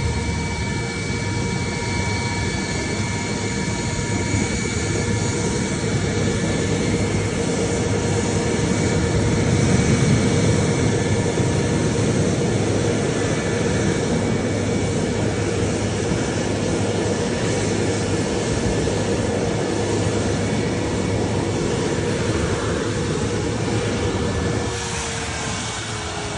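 Twin-engine Sukhoi fighter jets (Su-35S and Su-30SM) flying an airshow display: a loud, steady jet roar with a whining tone. It is loudest about ten seconds in, and the whine drops in pitch near the end as the jets pass.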